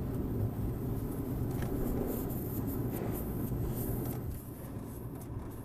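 Faint steady hiss of pressurized nitrogen escaping from a leak at a joint in an air-conditioner's refrigerant line, the sign of the leak that emptied the system's charge. A steady low rumble lies under it and eases slightly near the end.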